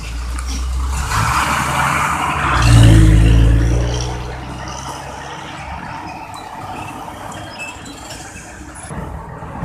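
A truck drives past, its engine rumble and tyre noise building to a peak about three seconds in and then fading, with steady road traffic noise after.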